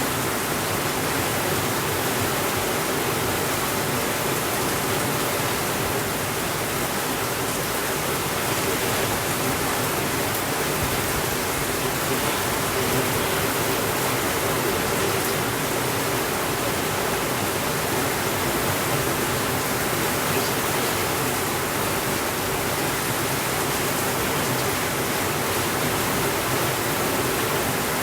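Steady rainfall, an even hiss that holds at one level without breaks.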